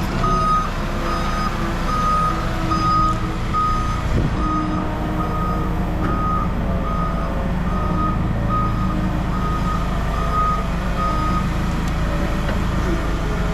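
A vehicle's reversing alarm beeping about twice a second over the rumble of its running engine; the beeping stops about eleven seconds in while the engine keeps running.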